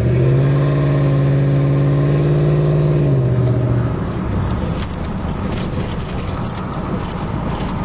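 Ford F-150 pickup's exhaust through twin Flowmaster Super 44 mufflers, pulling with a steady droning note. About three to four seconds in the note drops in pitch and fades as the throttle eases, leaving a rougher mix of engine and road noise.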